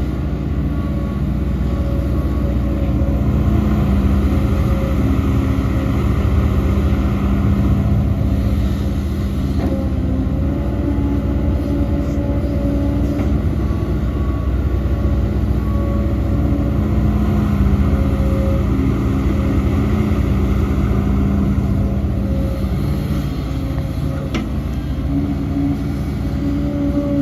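Heavy diesel earthmoving machinery running steadily, a deep engine drone whose pitch shifts a little as the load changes.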